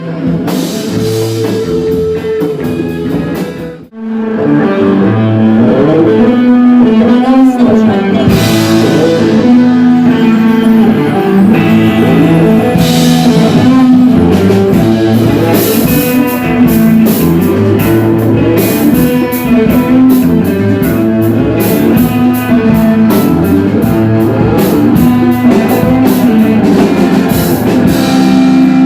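Rock music with guitar and drum kit: a lighter passage, a brief break about four seconds in, then the full band comes in louder.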